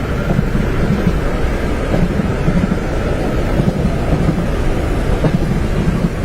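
Train running on the rails, a loud, steady low rumble with a soft, uneven pulsing in the bass.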